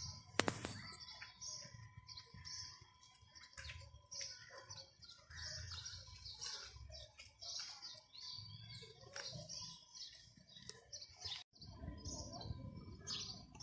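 Small birds chirping: many short, high calls, one after another throughout, faint. A faint steady tone sits underneath.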